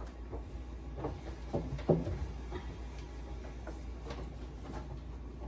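Groceries and containers handled and set down, giving a handful of short knocks and clunks, the loudest about two seconds in, over a steady low hum.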